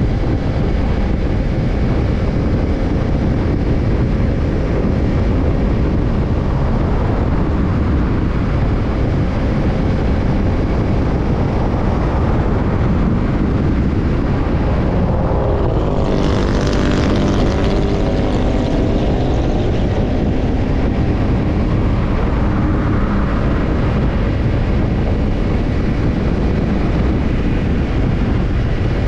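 Kawasaki Ninja 250 parallel-twin engine running through a BEET JAPAN NASSERT Evolution Type II titanium slip-on muffler, heard while riding. It is steady and loud, and gets louder and brighter for a few seconds just past the middle.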